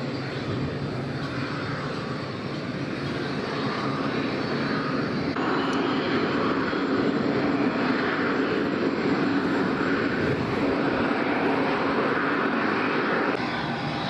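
Light aircraft engine running steadily, growing louder about five seconds in and easing back near the end.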